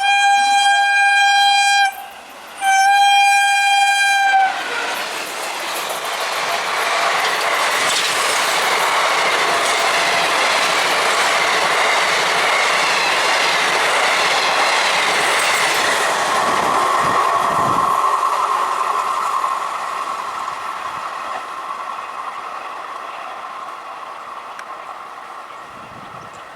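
Train horn sounding two long steady blasts on one note, then the train passing at speed with a loud rush of wheel-on-rail noise that slowly fades away.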